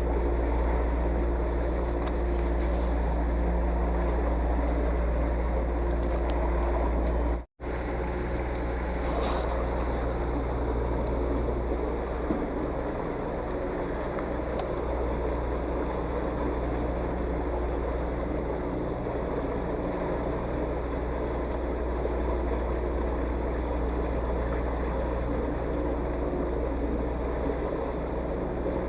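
Motorboat engine running steadily while the boat travels over the water, with wind and water noise over it. The sound cuts out for an instant about seven and a half seconds in, then carries on unchanged.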